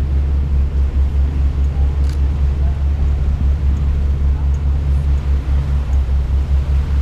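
Engine running steadily on board a moving vehicle: a loud, low, evenly throbbing rumble.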